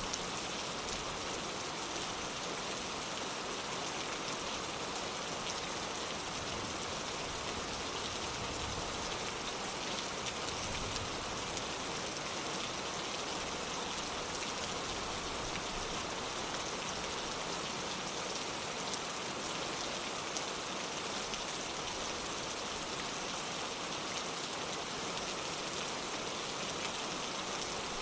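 Steady heavy rain falling, an even hiss with fine pattering drops and no thunder.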